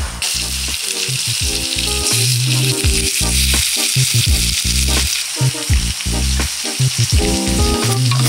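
Food frying in hot oil in a pan, a steady sizzle, under background music with stepping low notes.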